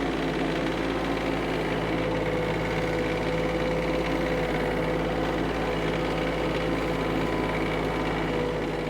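Kioti CS2520S subcompact tractor's diesel engine running at a steady speed, an even mechanical hum.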